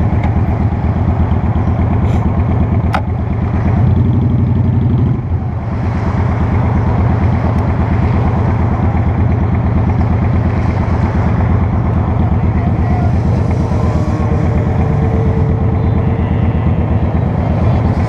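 Honda Shadow Spirit 750's liquid-cooled V-twin engine running under way, its firing pulses steady, with a short drop in level just after five seconds in.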